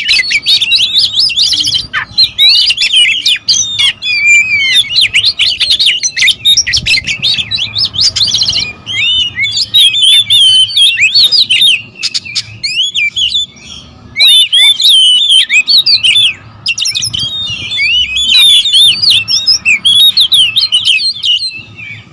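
Several oriental magpie-robins calling and singing over one another in a loud, dense run of fast chirps and whistles with hardly a break: the agitated, noisy calling of rival birds defending territory.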